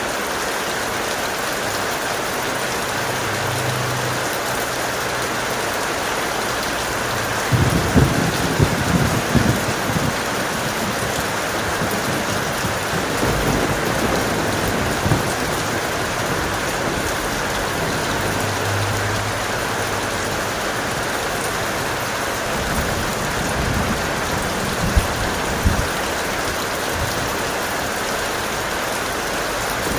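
Steady heavy rain, with a crackling rumble of thunder about a third of the way in and another shorter one near the end.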